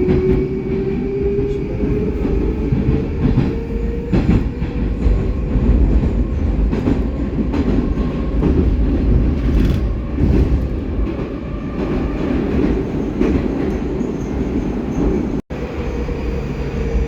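Inside a "Baltiets" metro car running through a tunnel: the traction drive's whine rises in pitch over the first few seconds as the train gathers speed, then holds steady over a loud rumble of wheels on rail, with occasional knocks. The sound drops out for an instant about 15 seconds in.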